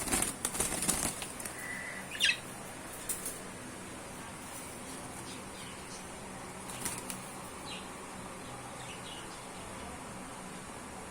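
Budgies beating their wings in a flurry for about the first second, followed by a few short, scattered chirps.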